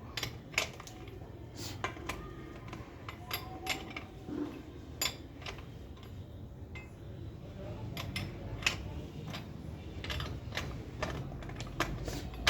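Irregular sharp metallic clicks and clinks of hand tools and metal parts as a component is worked onto a bicycle frame whose threads are clogged with paint.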